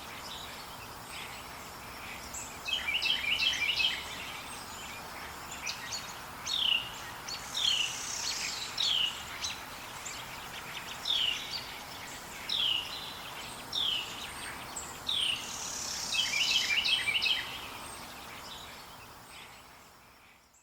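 Forest birds singing: a rapid chattering phrase comes three times, and in between a bird repeats a clear falling whistle about every second, over a steady background hiss. The sound fades out at the end.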